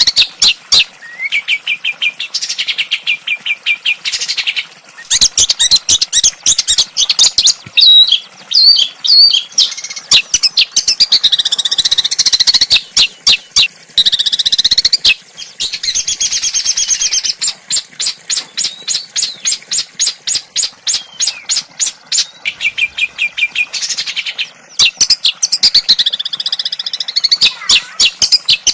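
Small songbird singing a sharp, rough song: warbling phrases alternate with fast trains of high, repeated notes, with short pauses between phrases.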